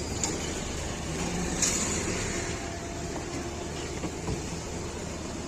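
Car engine running steadily, with a short hiss about a second and a half in.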